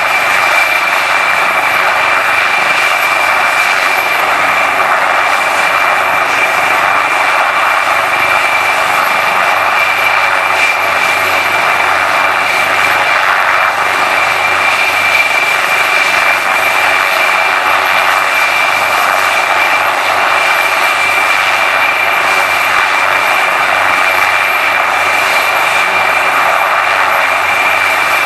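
HM Coastguard search-and-rescue helicopter running loud and steady: turbine engines with a constant high whine over the dense rush of the rotors, holding the same pitch and level throughout.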